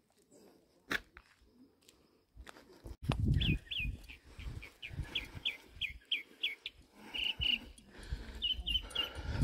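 A songbird calling a rapid series of short, evenly spaced chirps, about three a second, each dropping slightly in pitch, with a few more chirps near the end. A sharp click about a second in, and from about three seconds a low rumble on the microphone under the calls.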